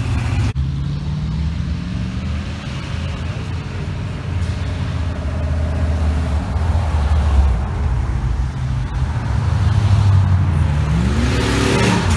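Car engines running low and steady as cars pull out, with one engine revving up near the end.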